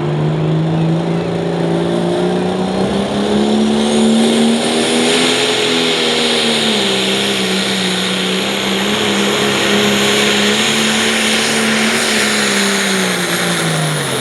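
International 1066 pulling tractor's turbocharged diesel engine running at full throttle down the track, its pitch climbing over the first few seconds, holding high with small dips, then falling near the end as the run finishes.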